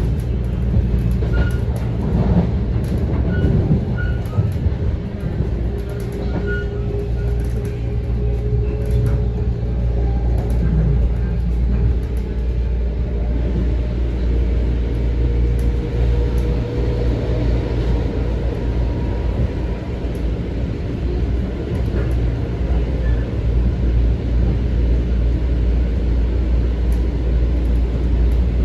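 Steady rumble of a Bombardier M7 electric railcar running along the track, heard from inside the car. A faint whine rises slightly through the middle.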